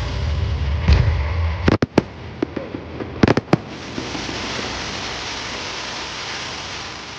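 Aerial fireworks going off. A low rumble cuts off sharply a little under two seconds in, followed by a few sharp bangs and a quick cluster of bangs about three seconds in. After that comes a steady crackling hiss that slowly fades.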